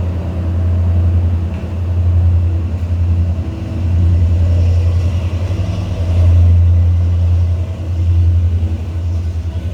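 Class S13 diesel multiple unit's engine running with a steady low drone, its loudness swelling and easing every second or two.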